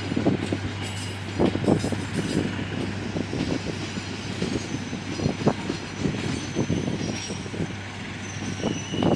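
Passenger coaches of the Gajayana express train rolling past, their wheels rumbling steadily and knocking irregularly over the rail joints.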